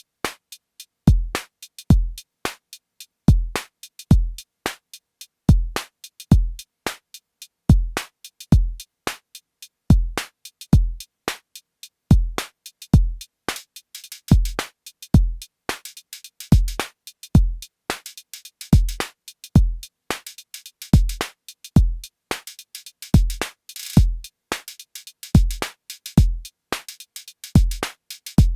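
Arturia DrumBrute Impact analog drum machine playing a steady beat: a deep, decaying kick drum with short, sharp hits between. About halfway in, a hissing noise layer fills the gaps, and a brief, brighter burst of hiss comes about five seconds before the end.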